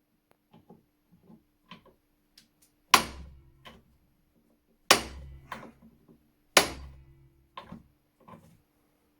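Hammer blows driving out a rust-seized part of an old flintlock shotgun: a few light taps, then three hard strikes about two seconds apart, each ringing briefly, with smaller knocks between them.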